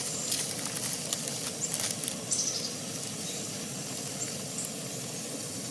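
Camp stove burner hissing steadily under a pot of water being heated, with light scrapes and clicks from a spoon scooping ground coffee into an AeroPress during the first couple of seconds.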